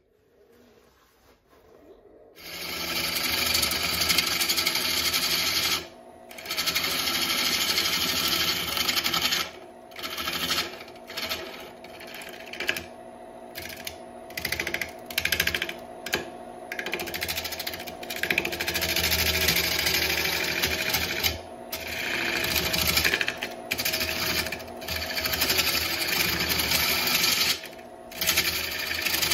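Wood lathe turning a burl while a turning tool cuts into the wood in repeated passes. A loud scraping, hissing cut sits over a low motor hum, starting about two seconds in, and it breaks off briefly each time the tool lifts away.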